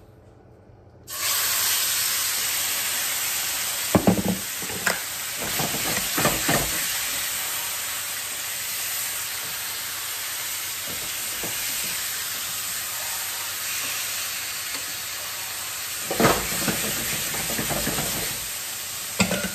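Raw chicken pieces sizzling in hot olive oil in a frying pan, the sizzle starting suddenly about a second in as the chicken goes into the pan. A wooden utensil knocks and scrapes against the pan a few times as the pieces are stirred.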